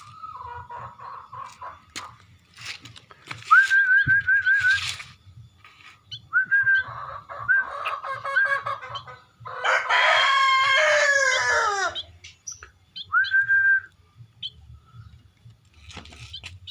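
A munia chick giving runs of short, repeated high begging chirps as it is hand-fed porridge. About ten seconds in, a rooster crows once, loudest of all, its pitch falling over two seconds; a few sharp clicks come in between.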